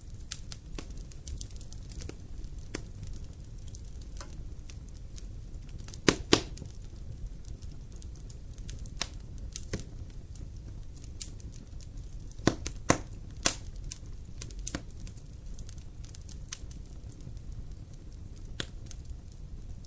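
Wood fire crackling in a fireplace: a steady low rumble of flame with irregular pops and snaps, a few sharper, louder pops about six seconds in and again around thirteen seconds.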